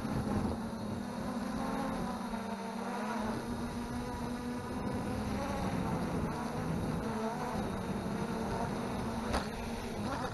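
MJX Bugs 3 quadcopter's brushless motors and propellers buzzing in flight, the pitch wavering up and down as the throttle changes. There is one sharp click near the end.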